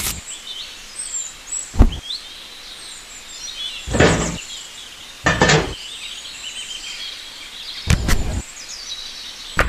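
Irregular knocks and short scraping sounds from hand work, with birds chirping throughout in the background.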